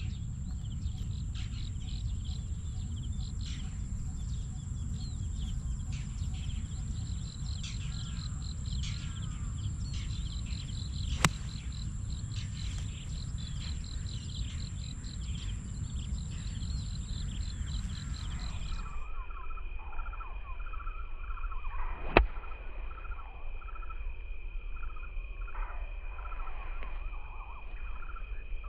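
Two sharp golf-club strikes on the ball, one about eleven seconds in and another about twenty-two seconds in, over birds chirping. Wind rumbles on the microphone for the first two-thirds, then stops abruptly.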